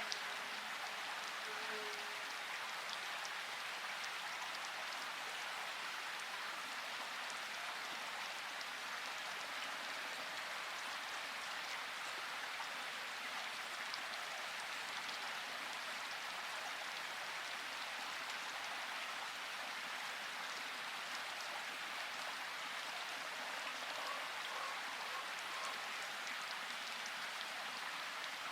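Steady rain falling: a dense, even hiss with faint scattered drop taps.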